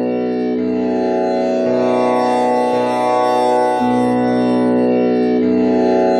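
Tanpura drone with Sa at B and the first string tuned to komal Ni, its four strings plucked one after another about once a second in a repeating cycle, each new pluck merging into a continuous buzzing hum.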